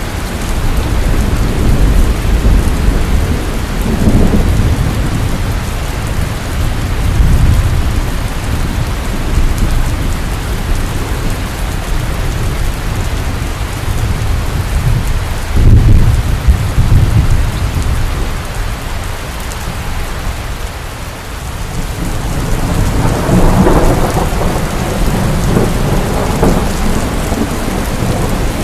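Heavy rain pouring steadily while thunder rumbles again and again. The loudest, sharpest clap comes about halfway through, and a long rolling rumble builds near the end.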